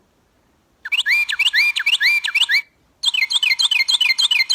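Recorded Carolina wren song played back from a handheld electronic bird call maker: two bursts of rapid repeated whistled notes, about four a second, rising in the first burst and falling in the second.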